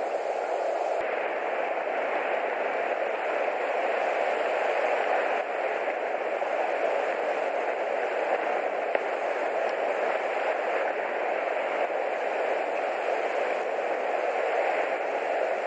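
Rain falling steadily, an even hiss picked up by the nest camera's microphone.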